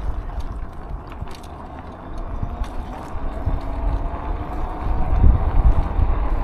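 Riding noise from an e-bike on the move: a steady low rumble of wind on the microphone and tyres on the ground, with a faint steady hum and scattered small clicks and rattles.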